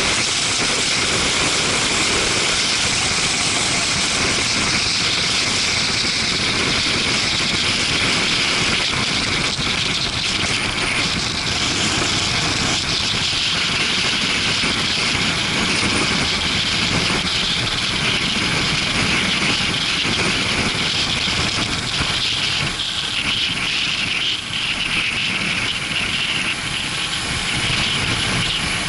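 Steady rush of wind over an action camera's microphone while riding a motorcycle, with the engine running underneath.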